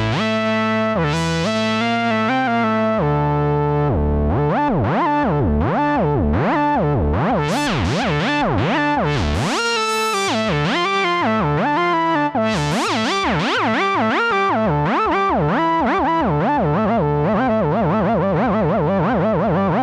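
Cherry Audio Sines additive software synthesizer playing a preset: sustained notes whose overtones, from about four seconds in, sweep up and down again and again.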